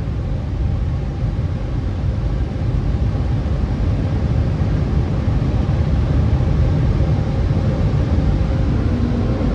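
Car wash dryer blowers running at full power, a loud, steady rush of air heard from inside the car as it is dried.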